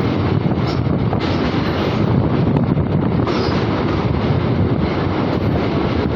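Train running at speed: a steady, loud rumble of wheels on rail.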